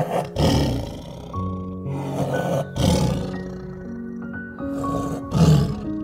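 Leopard calling with hoarse rasps in three groups, about two and a half seconds apart, the last one loudest near the end. Soft background music with held notes plays underneath.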